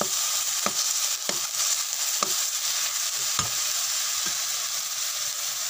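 Ground pork sizzling in hot oil in a pan as it is stirred, with the stirring utensil knocking against the pan about five times.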